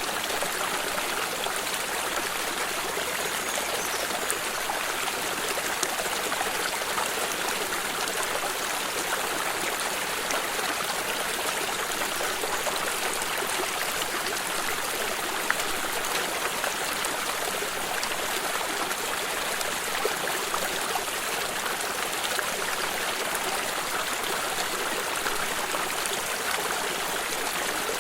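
A stream running steadily over rocks, an even rushing and trickling of water.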